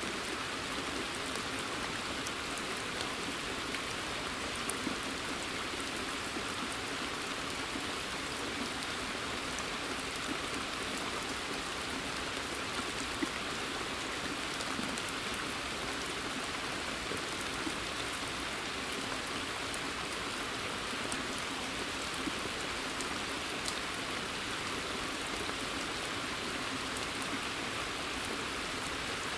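Steady rain falling on a forest and onto pond water: an even hiss with scattered individual drops ticking through it.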